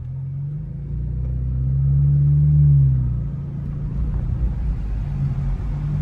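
BMW 428i turbo four-cylinder with an aFE aftermarket intake, accelerating: the engine note builds for about three seconds, then the driver lifts off and it settles to a steady cruise.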